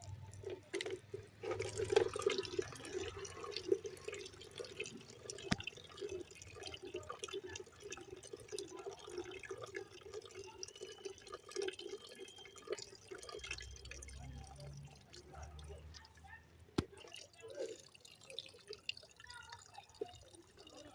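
Water trickling and dripping in an uneven, continuous patter, with a sharp click about five seconds in and another near the end.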